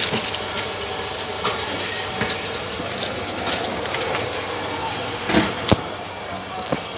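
Passenger train running, heard from inside the coach: a steady rumble with clicking and clatter from the wheels on the track. Two loud sharp clanks come close together a little past five seconds in.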